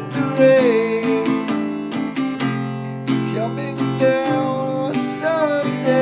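Acoustic guitar strummed in a steady rhythm, with a few long held melody notes over it.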